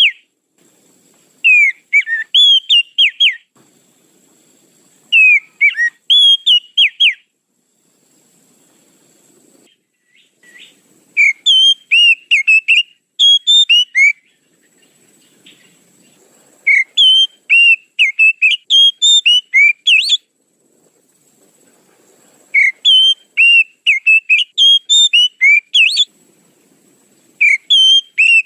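Oriental magpie-robin (kacer) song used as a lure call: loud bursts of rapid, sliding whistled notes, phrase after phrase, with short pauses between.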